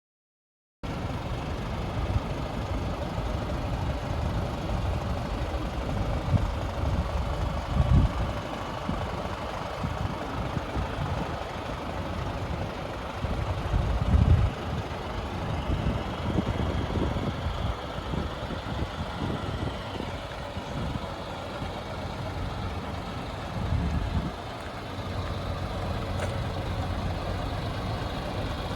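Scania S500 truck's 13-litre six-cylinder diesel idling steadily, with a few brief louder low surges.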